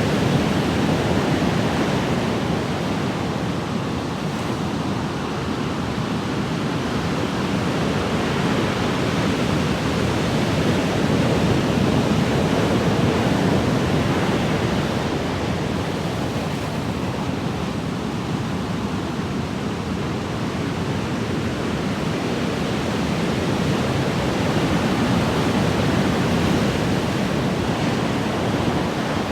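Ocean waves washing in a steady surf, rising and falling gently every several seconds.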